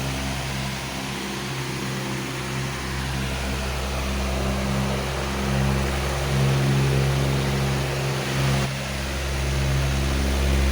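Powerful fan running steadily: a rush of air over a low motor hum made of several steady tones, the hum rising and falling a little in strength.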